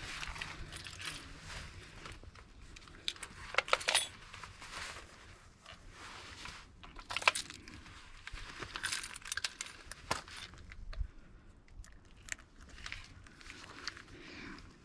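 Irregular small metallic clinks and rattles, the loudest about four and seven seconds in.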